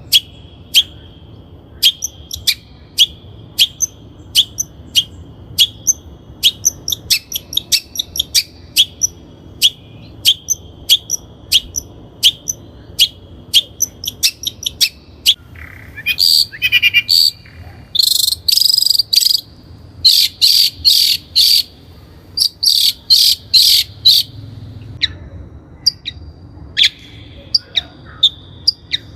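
Long-tailed shrike calling: a steady series of short, sharp high notes, then about halfway through a run of louder, harsh rasping bursts.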